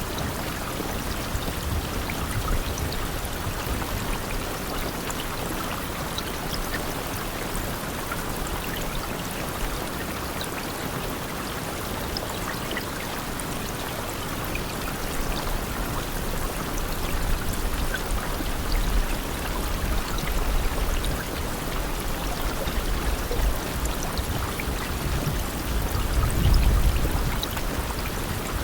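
Steady rain falling, a dense even hiss with scattered drop ticks. A low rumble swells in the second half and is loudest shortly before the end.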